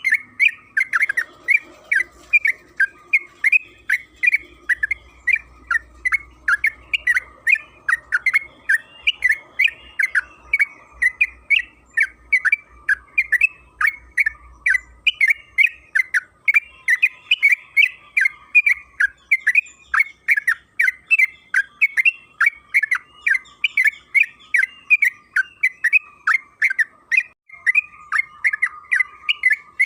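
Yellow-vented bulbul (trucukan) singing a long, unbroken run of rapid chattering notes, about three a second, with no pause.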